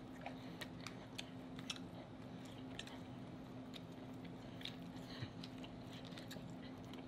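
A person chewing king crab knuckle meat close to the microphone, making faint wet mouth clicks and smacks at irregular intervals over a low steady hum.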